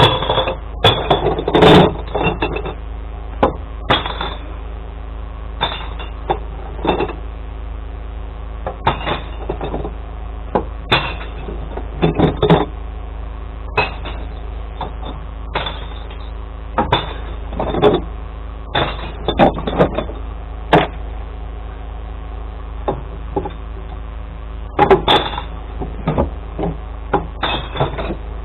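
Glass-collection truck's engine running steadily, with irregular knocks and clatters every second or two.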